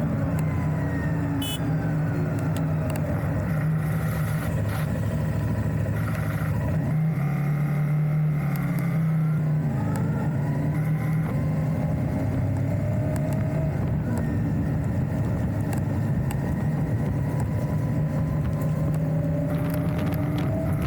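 Enduro motorcycle engine running steadily while riding on a gravel road, its note shifting in pitch about a third of the way through and again near halfway as the speed changes.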